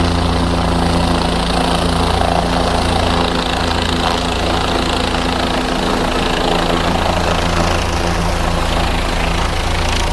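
Helicopter engine and rotor running steadily, a loud even drone with a low hum.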